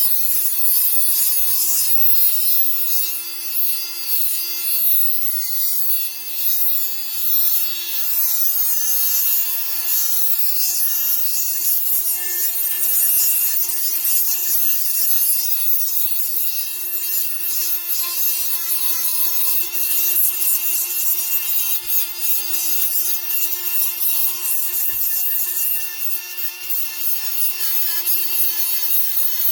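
Milwaukee M12 cordless die grinder on speed setting 4 running a Scotch-Brite pad against a rusty cast-iron brake rotor: a steady motor whine under a scratchy abrasive rubbing noise, with the level rising and dipping as the pad is pressed on and moved.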